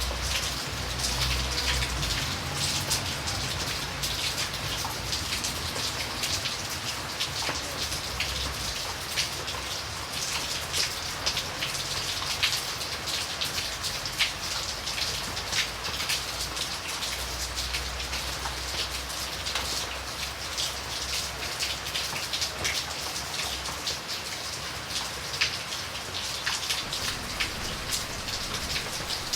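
Steady rain falling, a constant hiss thick with the ticks of individual drops striking a surface.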